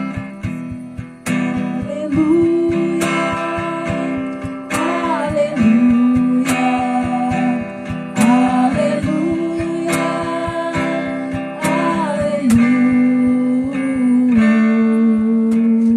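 Live praise music: a strummed acoustic guitar with a melody of long held notes sliding from pitch to pitch over it.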